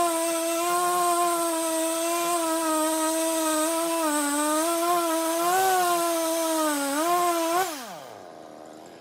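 An electric power tool's motor runs with a steady whine, its pitch sagging slightly a few times. Near the end it is switched off and winds down in a falling whine.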